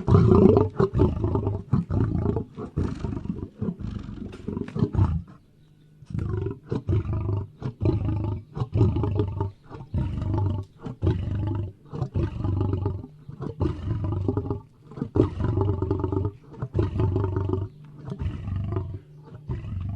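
Lion roaring: deep roars for about five seconds, a brief break, then a long rhythmic series of shorter grunting roars, about three every two seconds.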